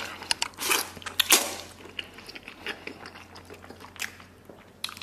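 A person biting into and chewing braised beef tendon: wet mouth sounds with short sharp clicks, loudest just over a second in.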